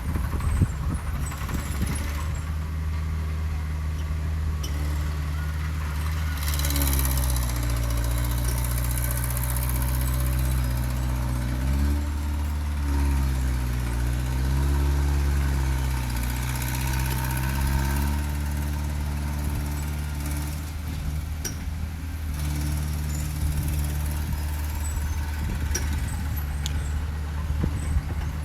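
Heavy diesel engine of earthmoving machinery running. Its pitch rises and falls several times through the middle stretch as the engine works under changing load, then settles back to a steady drone.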